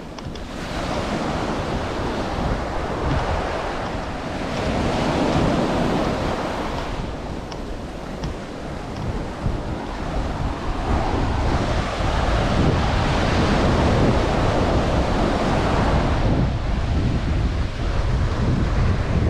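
Surf breaking and washing up a beach in slow swells, growing louder about halfway through, with wind rumbling on the microphone.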